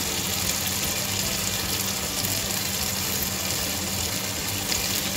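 Tomato masala frying in oil in a pan, a steady sizzle, with a steady low hum underneath.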